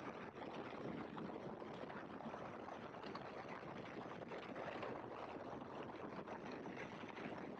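Great Lakes open-cockpit biplane in flight: a faint, steady rushing drone of engine and wind noise with no distinct engine tone.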